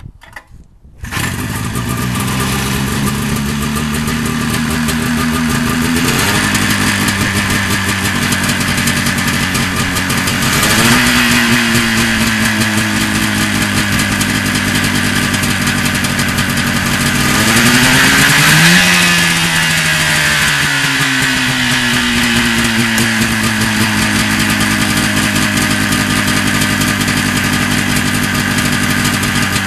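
Arctic Cat Jag 3000's 340 Suzuki two-stroke engine, single carb and single pipe, catching about a second in and then running steadily. It is revved three times, the last rev the highest, and each time the pitch falls slowly back to idle.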